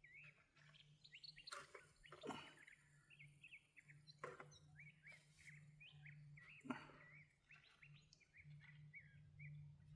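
Small birds chirping faintly, many short quick chirps one after another, with four soft knocks or clicks among them.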